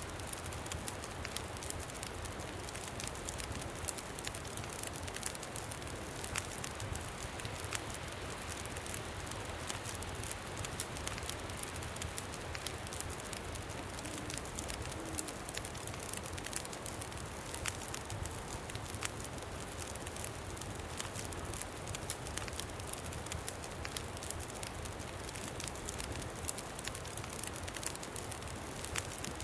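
Campfire crackling, with frequent small pops and snaps scattered through a steady low rush of wind.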